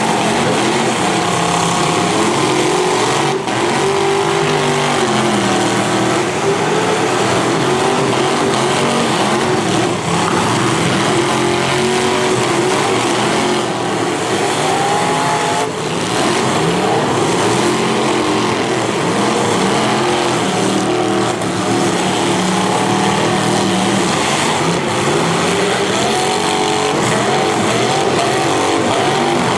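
Several demolition derby cars' V8 engines revving up and down over one another, with a few sharp crashes of car bodies hitting.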